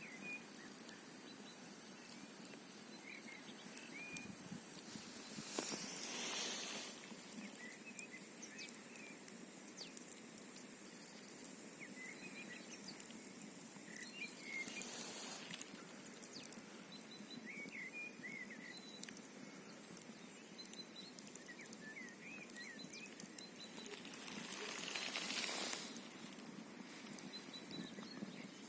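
Campfire crackling with scattered sharp pops over the steady rush of a mountain stream. Wind gusts swell and fade three times, about six, fifteen and twenty-five seconds in, and faint short chirps come and go.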